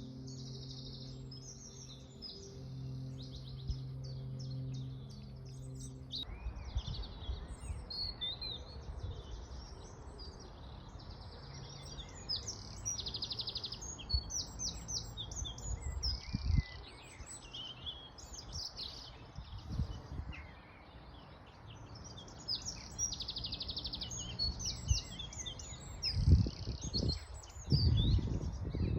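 Several songbirds singing and calling together, in quick overlapping high phrases. For the first six seconds a low steady hum runs underneath and then cuts off suddenly. After it there is a soft rushing haze, with a few low thumps near the end.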